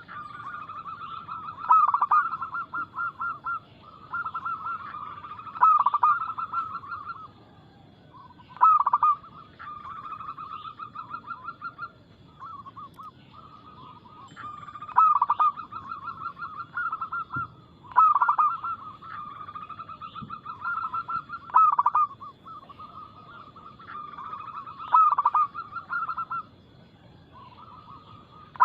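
Zebra doves (local perkutut) cooing their song: each phrase opens with a loud note, then a fast run of short coos, and the phrases repeat about every three to four seconds.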